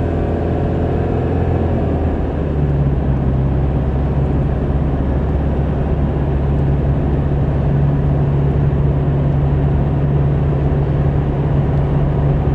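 Car driving on the road, heard from inside the cabin: steady road and engine noise with a low hum that shifts about two seconds in.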